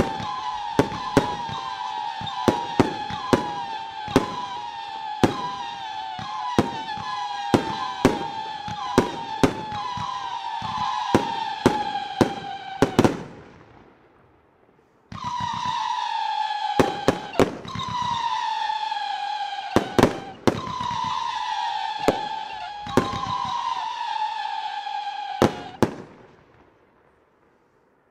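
Firework battery firing a rapid string of shots, each a sharp bang followed by a shrill whistle that falls slowly in pitch, the whistles overlapping. It dies away about 13 seconds in, starts again abruptly about two seconds later with more bangs and falling whistles, and fades out near the end.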